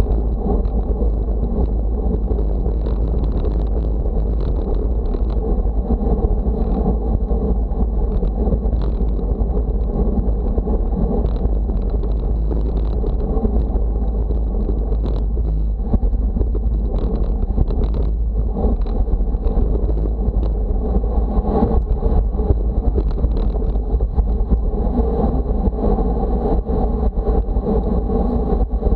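Steady, loud rumble of wind buffeting a moving microphone, mixed with road noise, with scattered small ticks and knocks.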